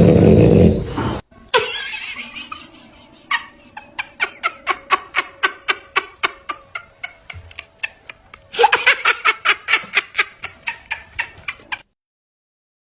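French bulldog snoring loudly, cut off about a second in. It is followed by a long run of short, quick, evenly spaced sounds, about three a second, which grow louder about eight and a half seconds in and stop abruptly shortly before the end.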